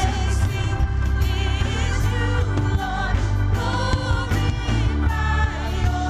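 Gospel praise and worship music: singers holding wavering sung notes over a band with heavy bass.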